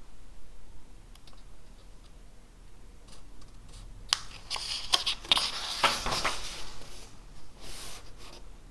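Pen writing on paper at a desk: short scratchy strokes and a few sharp taps, busiest about four to six seconds in.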